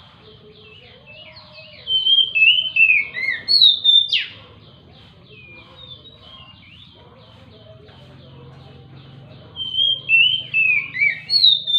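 Oriental magpie-robin (kacer) singing: two loud bursts of quick falling whistled phrases, one about two seconds in and one near the end. Between them runs a faint, fast chatter of repeated high notes, with a sharp sweeping note about four seconds in.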